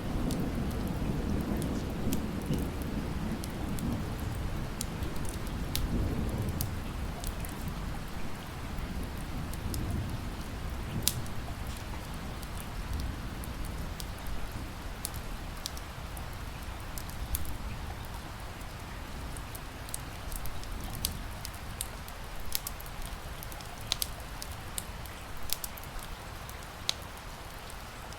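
Steady rain with scattered sharp pops and crackles of a wood fire. A low rumble of thunder rolls through the first few seconds and fades out about ten seconds in.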